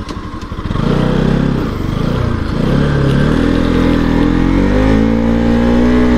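Bajaj Pulsar NS200's single-cylinder engine pulling away: a low pulsing idle, then about a second in it opens up and accelerates. The pitch dips briefly about two and a half seconds in, then climbs steadily.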